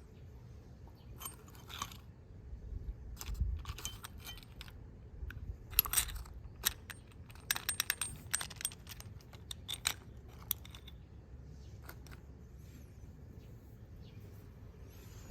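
Scattered metallic clicks and clinks of small metal parts and tools being handled, with a dense run of quick clinks about halfway through.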